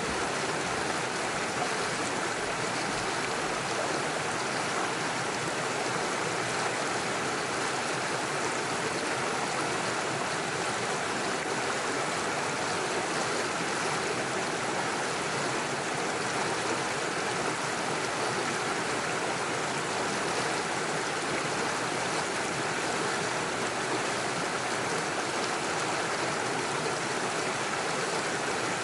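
Small rocky stream running steadily over stones and little waterfalls, an even rushing of water.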